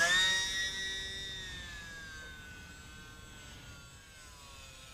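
Tiny electric R/C airplane's motor and propeller whining high and steady, the pitch sinking slowly and the sound fading as the plane flies away.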